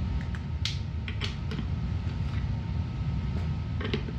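A few scattered clicks and knocks of tools being handled, over a steady low hum; the impact drivers are not running.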